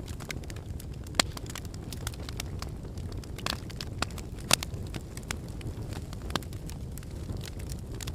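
Logs burning in a fireplace: irregular sharp crackles and pops over a steady low rumble, with the loudest pops about a second in and again about four and a half seconds in.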